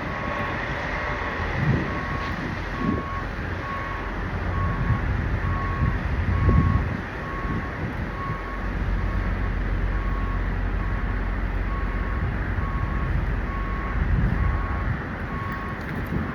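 A truck's reversing alarm beeping steadily, a little more than once a second, over the low rumble of idling truck engines. A few dull thumps, the loudest about six seconds in.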